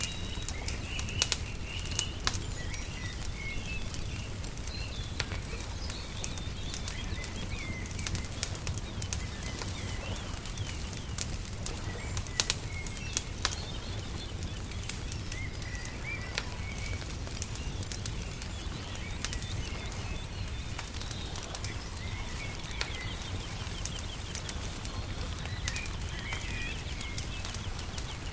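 Wood fire crackling with irregular sharp pops, while small birds chirp now and then over a steady low rumble.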